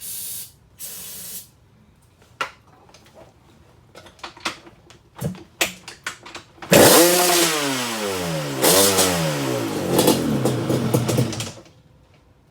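Yamaha Banshee twin two-stroke engine firing up on its first start after a rebuild: a couple of short hissing bursts and clicks, then about seven seconds in it catches and runs loudly with its revs dipping and rising twice, before cutting off suddenly near the end.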